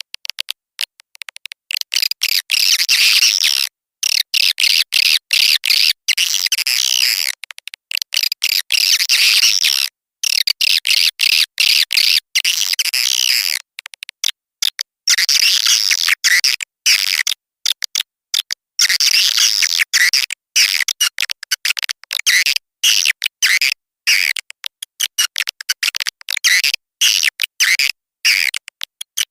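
Swiftlet lure call: dense, rapid, high-pitched twittering chirps in long runs, broken by frequent abrupt silent gaps. It is the kind of call swiftlet farmers play to draw swiftlets into a nest house.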